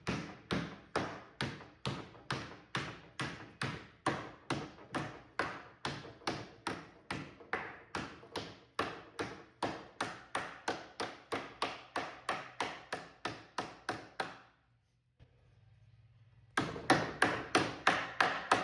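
Hammer blows on sheet metal held over a wood template, bending a crease into the panel, at a steady rate of about three blows a second. The blows stop for about two seconds near the end, then start again louder.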